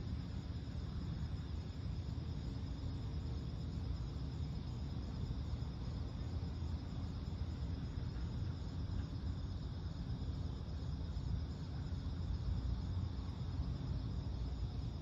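Steady, unbroken high trilling of night insects over a constant low rumble.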